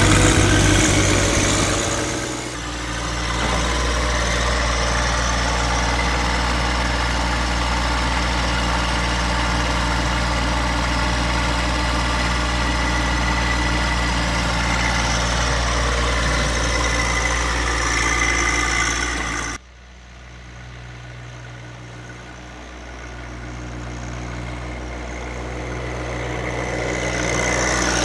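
John Deere 2025R compact tractor's three-cylinder diesel engine running steadily. About two-thirds of the way through, the sound drops off suddenly, then comes back quieter and grows gradually louder toward the end.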